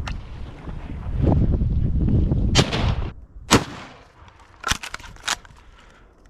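Shotgun blasts, four sharp shots spread over the last three or four seconds. Before them, wind buffets the microphone with a heavy low rumble.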